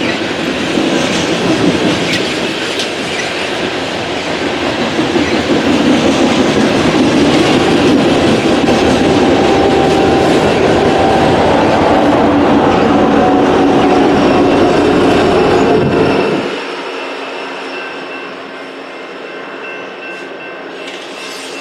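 A BNSF coal train rolling past on the rails: a steady, loud rumble with the clickety-clack of wheels over rail joints. The sound drops off abruptly about sixteen seconds in.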